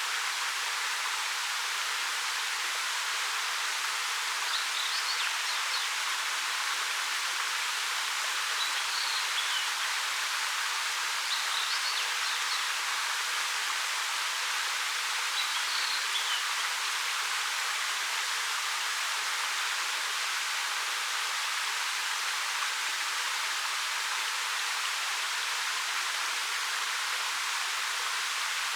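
Ariake Falls, a 13 m waterfall, pouring steadily over rock in an even rushing hiss. Faint short bird chirps come through four times in the first half.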